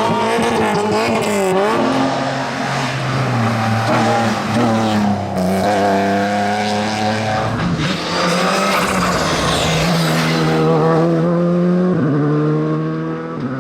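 Rally car engines at full throttle, their pitch climbing and then dropping with each gear change.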